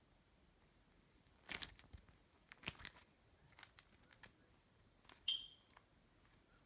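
Faint, scattered clicks and crackles of cloud slime being handled, with one short high-pitched chirp about five seconds in.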